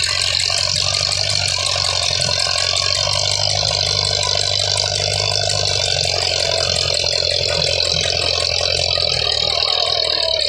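Old tractor's diesel engine running at a steady, even speed.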